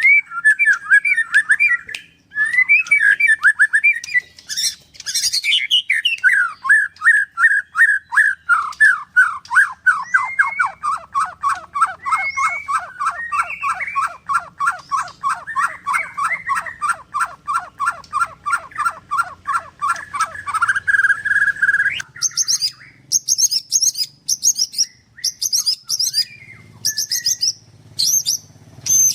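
White-rumped shama (murai batu) singing. It opens with warbled phrases, then fires a long run of fast repeated downward-sweeping notes for about fifteen seconds, the 'nembak' rapid-fire song. This ends in a held whistle, followed by short high chirps.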